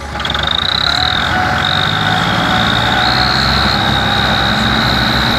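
Tractor engine running hard under load, with a sudden rise in loudness at the start and a steady high-pitched whine over the rumble.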